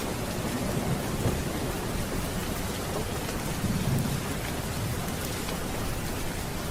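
Steady heavy rain with low rolling thunder rumbling underneath, swelling a little just past the middle.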